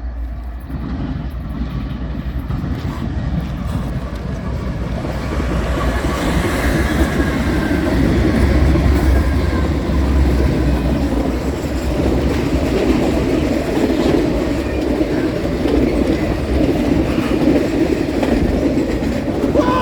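A train passing close by: a steady rumble of wheels on rail with clickety-clack, building over the first several seconds and then holding loud, with a faint high wheel squeal at times.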